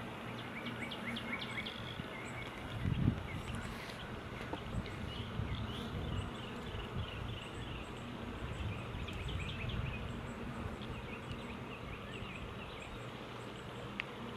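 Honey bees buzzing around an open hive, a steady low hum, with short high chirps over it and some low rumbling from about three seconds in.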